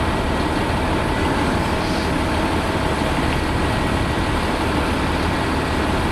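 Jet airliner engines running steadily at low power, a constant rush of noise with a faint steady whine.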